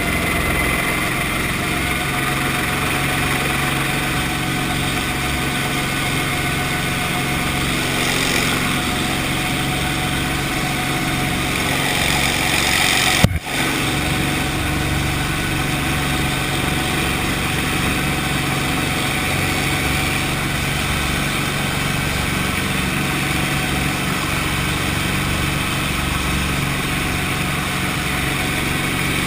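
Brantly B-2B helicopter's piston engine and rotor running steadily, with a brief click and dropout about 13 seconds in.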